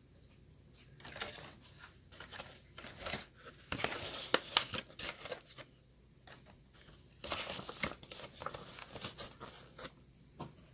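Plastic-and-card toy car packaging crinkling and crackling as it is handled, in two spells: one starting about a second in, the other about seven seconds in.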